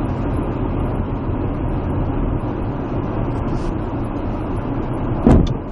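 Steady road and engine noise from a vehicle's dashcam, then a single sharp, loud bang about five seconds in: the impact of a traffic collision.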